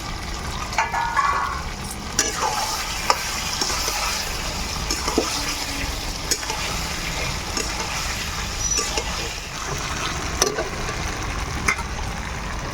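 Chicken with freshly added tomatoes sizzling in a kadai over a wood-fired stove as the meat is stir-fried, with a spatula scraping and knocking against the pan every second or so.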